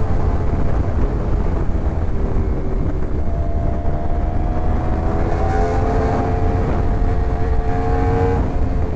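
Yamaha R1 sport bike's inline-four engine running steadily on the road, with heavy wind rumble on the microphone. The engine note climbs slowly, then dips briefly near the end.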